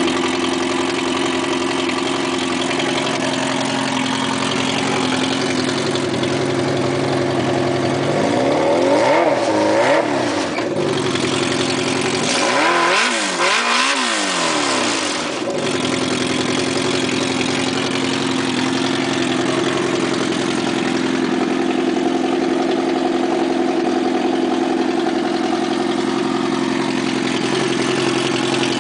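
Yamaha Apex snowmobile's four-stroke engine idling through a broken Bender aftermarket exhaust, blipped twice a third of the way in, pitch rising and falling each time, then settling back to a steady idle.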